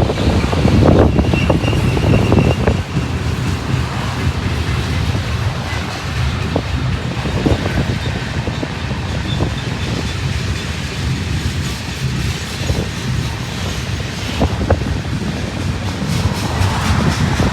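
Union Pacific freight cars rolling past on steel wheels: a steady low rumble with scattered clanks and clicks from wheels and couplers.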